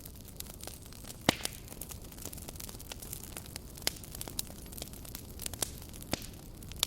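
Wood campfire crackling, with scattered sharp pops, the loudest about a second in, over a steady low rumble.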